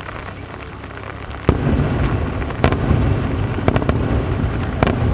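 Fireworks bursting overhead: a sudden heavy boom about a second and a half in, then continuous rumbling broken by several sharp cracks. Before the first boom, a steady hiss of rain.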